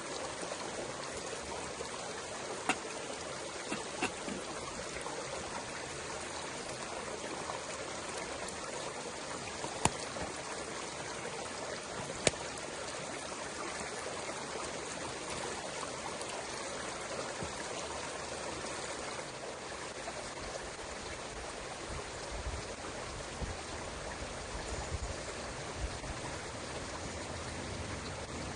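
Stream water running steadily, with a few sharp clicks between about 3 and 12 seconds in and some low rumbling bumps near the end.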